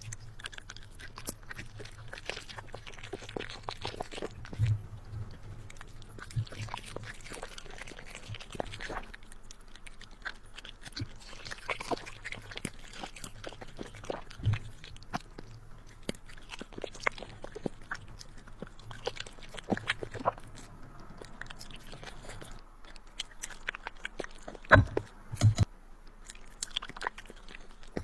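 A puppy chewing and crunching food, with a quick, irregular run of small crunches and clicks and a few louder knocks near the end.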